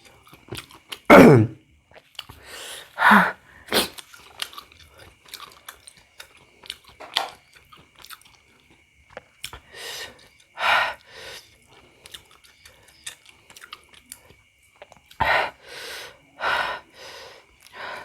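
Close-miked chewing of bakso meatballs: wet mouth and lip noises at irregular intervals, with a brief falling voiced sound about a second in.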